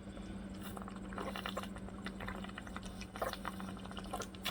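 A person drinking an electrolyte drink from a bottle: small swallowing and liquid sounds with light clicks of handling, over a steady low hum.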